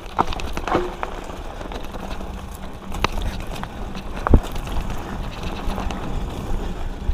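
Diamondback Line hardtail mountain bike ridden over a dirt trail: a steady low rumble from the tyres, with scattered clicks and knocks from the bike and one sharp thump about four seconds in.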